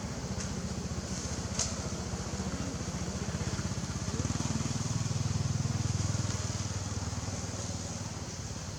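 A motor engine running with a fast, low pulse; it grows louder about four seconds in, then eases off.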